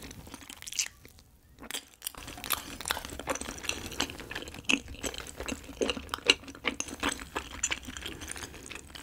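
Close-miked chewing of a cheese-filled rice cake (cheese tteok) coated in spicy rabokki sauce: quick sticky, wet mouth clicks and smacks, starting after a quieter moment about two seconds in.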